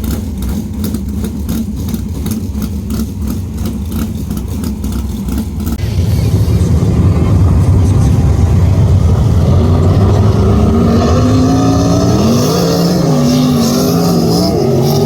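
Super sprint race car engines running, with a steady pulsing rumble at first. About six seconds in it grows louder, and the engine pitch rises and falls repeatedly as the cars rev and lift.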